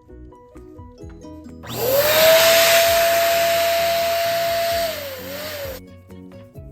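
A balloon inflator blowing air into a balloon: a loud steady rush of air with a whistling tone that rises as it starts, wavers near the end and cuts off suddenly after about four seconds, over background music.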